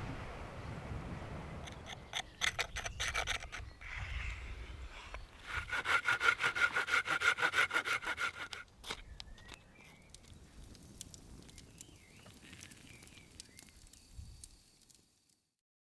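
Hand saw cutting wood in fast, even back-and-forth strokes, in two bursts: a short one about two seconds in and a longer, louder one a few seconds later.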